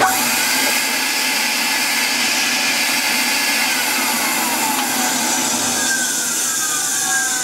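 Electrolux Z345 Automatic cylinder vacuum cleaner switched on, starting suddenly and then running steadily with the rush of its motor and airflow. Its motor sounds "a little bit dry, but not horrific".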